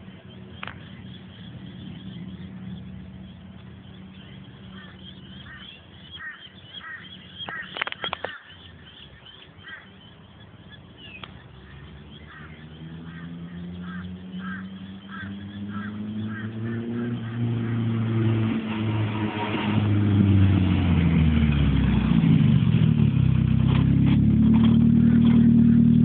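Nissan Silvia drift car's built SR20 four-cylinder engine approaching, growing steadily louder over the second half, its pitch dropping and rising as it revs before it runs loud and close near the end. Birds chirp repeatedly in the quieter first half.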